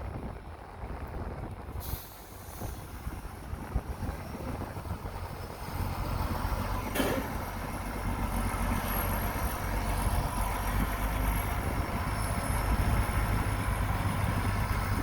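Heavy earthmoving machine's diesel engine running, getting louder about six seconds in, with a single sharp knock about seven seconds in.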